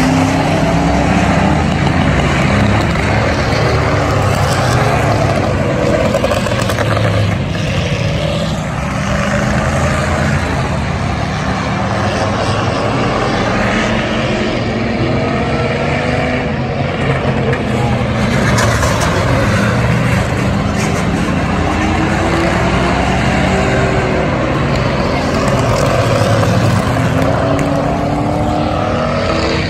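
Several car engines running hard and revving together, loud and continuous, their pitch rising and falling.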